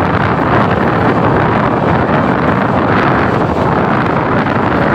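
Loud, steady wind buffeting a microphone held outside a fast-running broad-gauge passenger train, mixed with the continuous rolling rumble of the train.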